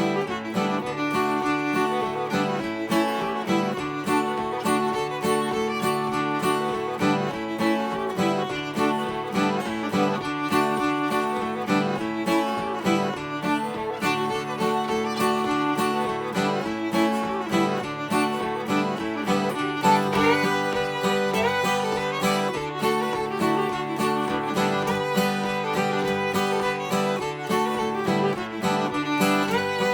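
Fiddle and acoustic guitar playing an old-time fiddle tune in D: the fiddle carries the melody over steady rhythm guitar strumming.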